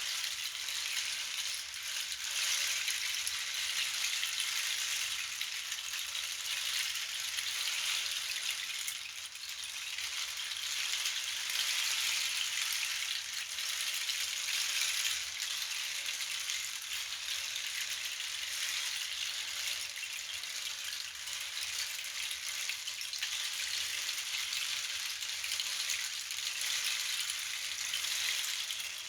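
Continuous hissing rattle of a percussion instrument filled with small pellets rolling or being shaken, swelling and easing in slow waves.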